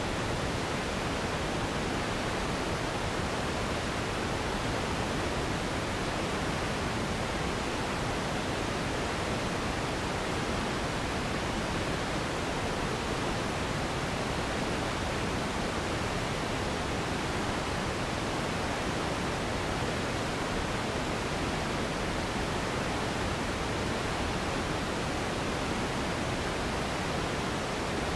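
Steady, unbroken noise played as a sleep and relaxation sound, an even hiss with no changes and slightly softer in the highest range.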